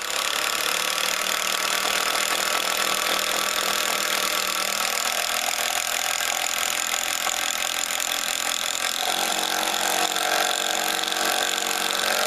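Cordless impact driver running continuously as it drives a fastener into a log, with its sound changing about nine seconds in, the change that signals the fastener is getting tight.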